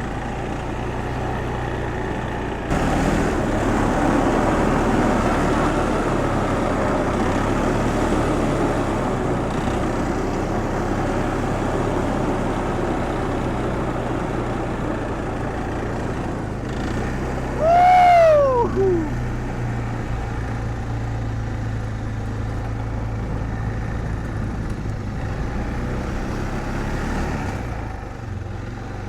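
A small engine running steadily at idle, with a broader rushing noise over it. About 18 seconds in, a short squeal slides down in pitch.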